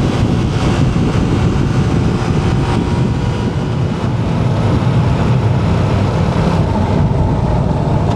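Motorcycle engine running steadily at cruising speed, mixed with heavy wind rush over the rider-mounted microphone.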